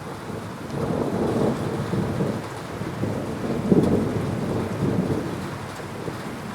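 Thunder rumbling over steady heavy rain. The rumble swells about a second in, is loudest near the middle, and dies away toward the end.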